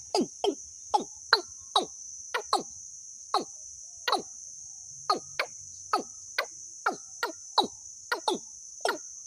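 Bird call recording used as a lure: short call notes, each falling quickly in pitch, repeated irregularly about twice a second, over a steady high insect-like buzz.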